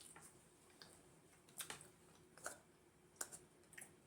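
A handful of faint, short wet smacks and clicks of someone chewing soft fufu with peanut butter soup, spread over near-silent room tone.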